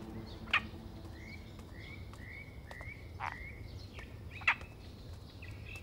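Birds calling: a few sharp downward chirps and a quick run of about five short repeated calls, over a low steady background rumble.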